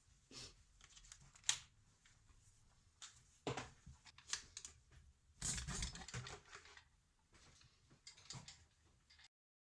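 Scattered light clicks and taps of handling noise, in a few small clusters with one sharp click about a second and a half in, cutting off suddenly near the end.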